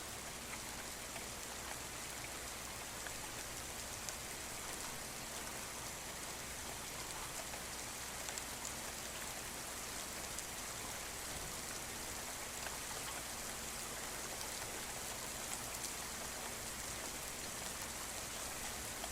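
Steady rainfall, a constant hiss with many individual drops ticking and pattering on surfaces.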